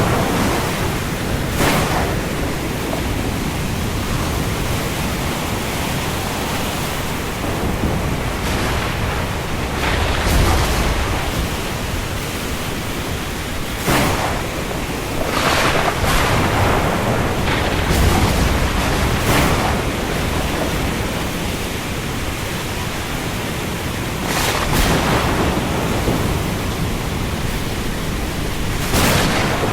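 Steady heavy rain falling on the sea, a constant hiss with brief louder surges every few seconds.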